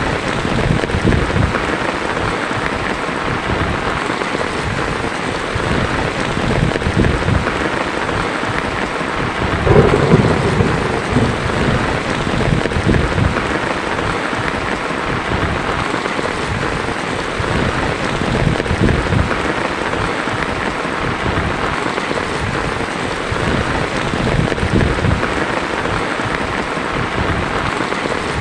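Heavy rain falling steadily on a tin roof, with thunder rumbling low underneath and one louder clap about ten seconds in.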